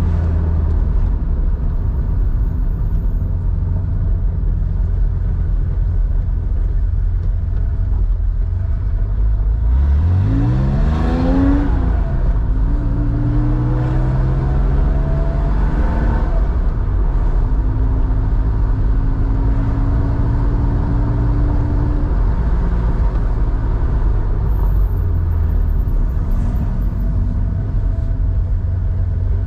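Porsche 911 air-cooled flat-six, enlarged to 3.4 litres, breathing through a Scart two-in-one-out muffler, running under way with a steady rumble. About ten seconds in it revs up quickly, then pulls up more slowly at a lower pitch after what sounds like a gear change, and settles to a steady cruising note.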